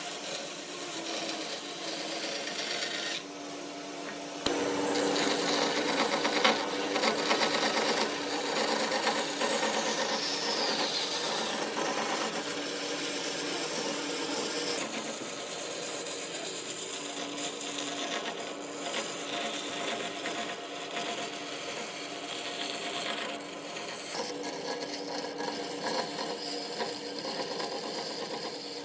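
A power tool running against wood, in stretches that change abruptly a few times.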